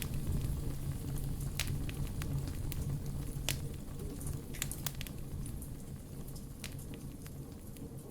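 Wood fire crackling in a fireplace, with irregular sharp pops over a steady low hum, slowly getting quieter.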